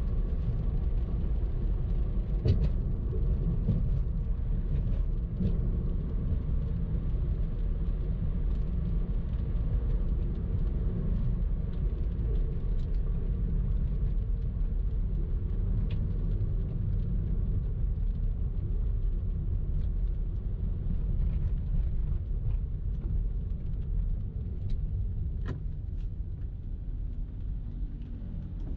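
Car driving in traffic: a steady low rumble of engine and road noise, with a few faint clicks scattered through it, easing slightly near the end.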